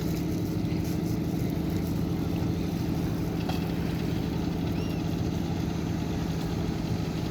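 Boat engine running steadily, a low even hum with a constant pitch.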